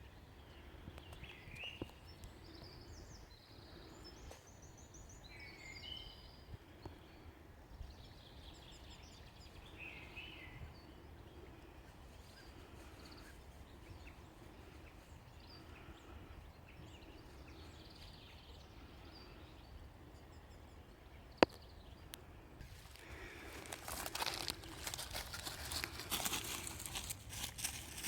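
Wild birds chirping and calling in short gliding phrases over a low background hum, with a low note repeating about once a second. A single sharp click comes about 21 seconds in, and close crackling and rustling takes over near the end.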